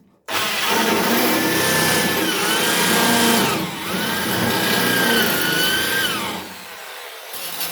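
A handheld electric power tool starts and works into the car's sheet-steel bodywork. Its motor whine dips in pitch twice as it bogs under load and recovers, then it winds down near the end.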